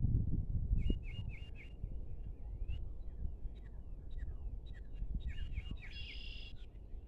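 Small birds chirping in quick runs of short high notes, with a higher call about six seconds in. Under them is a low rumble, strongest at the start.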